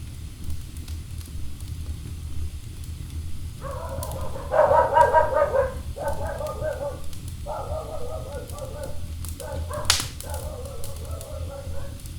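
Wood fire burning with a low rumble and small crackles, joined after a few seconds by a wavering, high-pitched whine in four stretches with short breaks between them. There is one sharp, loud pop about ten seconds in.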